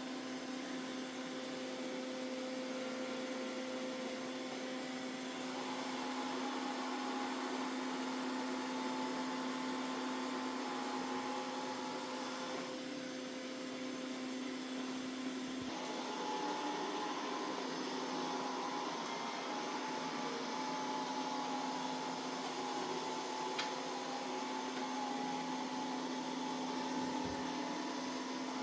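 Mova Z60 Ultra robot vacuum-mop running steadily while vacuuming and mopping a floor, a motor hum with a higher whine that comes in about five seconds in, drops out for a few seconds near the middle and then returns.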